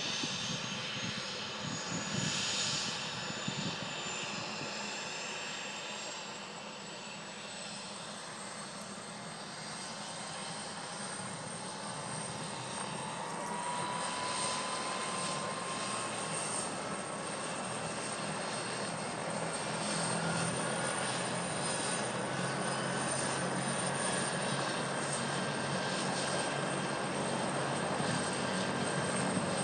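Rescue helicopter running steadily, its rotor noise under a high turbine whine. The whine creeps slowly upward in pitch, and the sound grows quieter about a third of the way through, then builds again.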